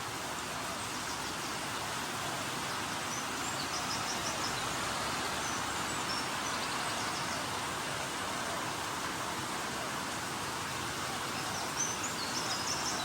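Steady outdoor background noise with short, high bird chirps now and then, several of them close together near the end.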